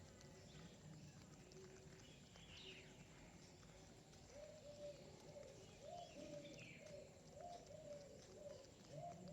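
Pigeons cooing faintly, a quick series of short low notes starting a little before halfway through, with a few faint higher chirps from small birds.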